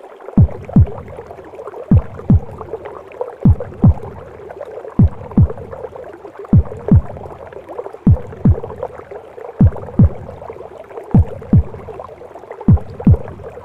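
Heartbeat as heard from inside the womb: a slow, steady double thump, each beat a low thud dropping in pitch, about every second and a half. Underneath runs a continuous gurgling, whooshing womb sound.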